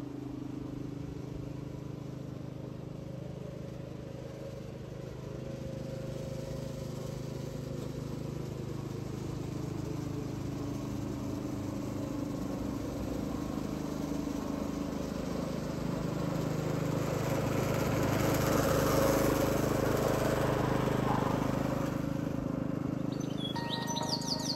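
Petrol lawn mower engine running steadily under load, slowly growing louder to a peak about three quarters of the way through, then easing off.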